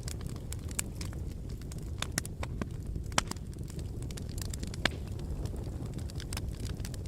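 Wood fire burning in a fireplace: irregular sharp crackles and pops over a low, steady rumble of flames. Two louder pops come about three and five seconds in.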